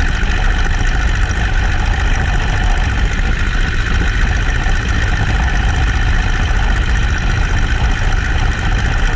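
Boeing-Stearman Model 75 biplane's radial engine running steadily and loud, with a constant rush of noise over it.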